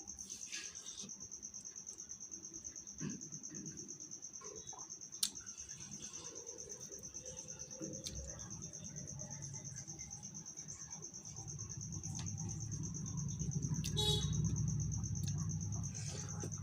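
A cricket chirping in a fast, steady pulse, with a few sharp clicks, and a low rumble that comes in about two-thirds of the way through.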